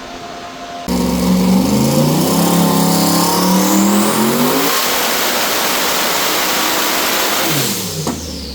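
Twin-turbo 427 LS V8 in a Trans Am making a full-throttle pull on a hub dyno. About a second in it goes to wide-open throttle and the revs climb with a rising high turbo whistle. Near the end the throttle closes and the revs and turbo whine fall away.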